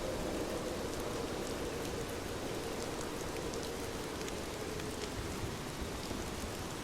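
Heavy rain falling steadily, an even hiss with scattered drops ticking.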